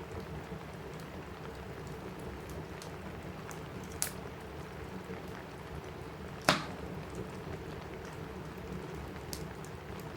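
Steady rain on a cabin roof mixed with a crackling wood fire, small ticks scattered through it, a sharp pop about four seconds in and a louder pop about six and a half seconds in.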